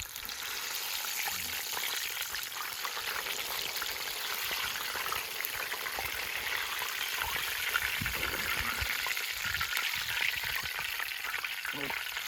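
Chicken pieces deep-frying in a pan of hot oil, with a steady sizzling and crackling that rises just as it begins.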